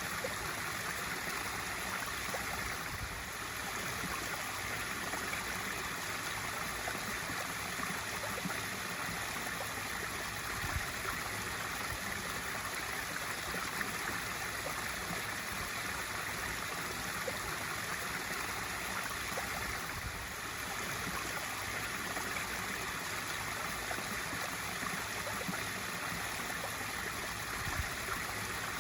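Swimming pool waterfall: water spilling steadily into the pool in a continuous splashing rush.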